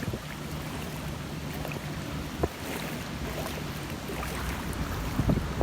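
A vehicle engine running steadily with a low hum, under a hiss of wind and water noise, with a single knock about two and a half seconds in.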